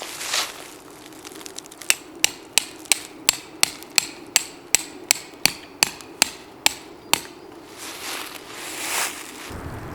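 A rapid series of sharp, evenly spaced knocks, about fifteen at roughly three a second, that stops after about five seconds.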